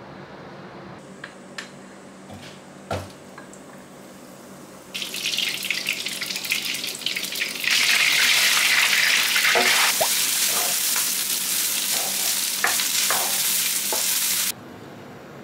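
Butter frying in a non-stick wok: a sizzling hiss starts about five seconds in, grows louder around eight seconds, and cuts off suddenly near the end. Light knocks from a wooden spatula come through the sizzle as rice is stirred, and a few soft knocks come before the frying starts.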